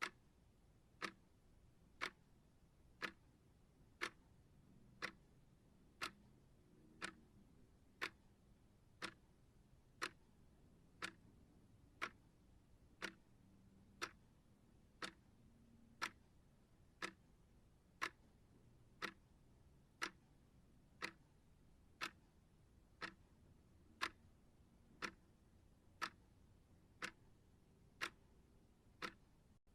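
Timer ticking steadily, one soft tick each second.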